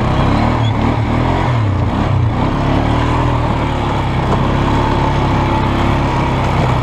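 2002 Polaris Sportsman 500 H.O. ATV's single-cylinder four-stroke engine under way on the trail, its pitch swinging up and down with the throttle for the first couple of seconds, then holding a steadier note.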